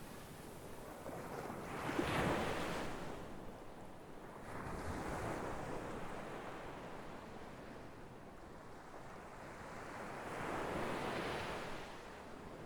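Sea waves breaking and washing on the shore, three swells of surf: a louder one about two seconds in, then two softer ones about five and eleven seconds in.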